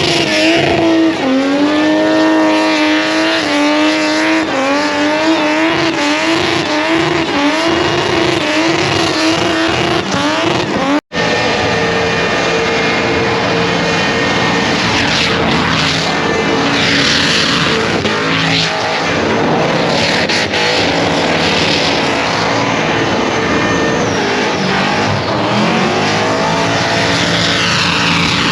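Car engine revved hard and held high, its pitch bouncing up and down, with tyres squealing as in a burnout; the sound cuts out briefly about eleven seconds in and a second run of high engine revs follows.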